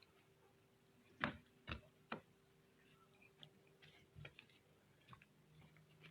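Near silence broken by a few faint sharp clicks or knocks: three close together a little after a second in, then lighter scattered ticks.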